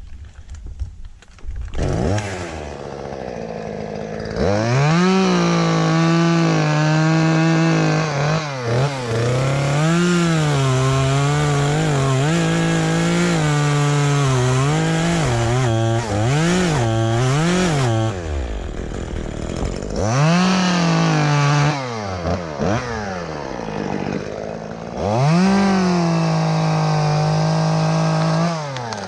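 Chainsaw cutting a hinge into a section of tree, running at high throttle with its pitch sagging as the chain bites into the wood and climbing again as it frees. The saw runs in several long cuts, eases off briefly about two-thirds of the way through, then is revved up again near the end.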